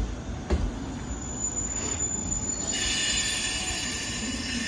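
JR West 201 series electric train pulling into the station: two wheel clacks near the start, then from about three seconds in a high, several-toned squeal as its wheels and brakes bring it toward a stop.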